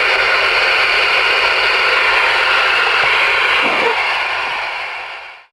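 Static from a Galaxy DX-98HP ten-meter radio's speaker as it receives on the air, a steady hiss that fades out near the end.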